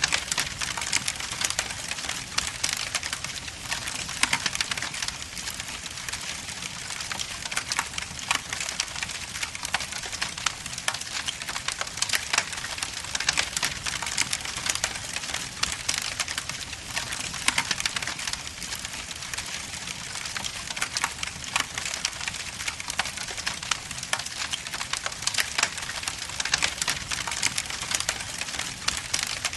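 Wood logs burning in a fireplace: a steady hiss with many sharp crackles and pops.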